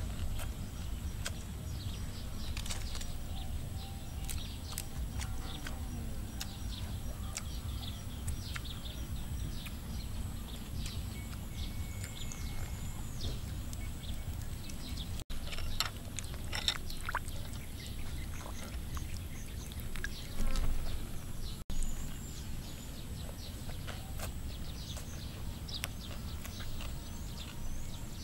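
Birds chirping with many short, high, downward-sliding calls over a steady low rumble, with a brief louder noise about two-thirds of the way through.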